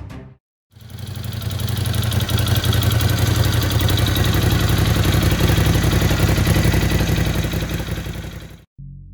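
Ducati Scrambler 1100's air-cooled L-twin engine running steadily at idle through loud exhaust pipes. It cuts in about a second in, after a brief gap, and stops abruptly near the end.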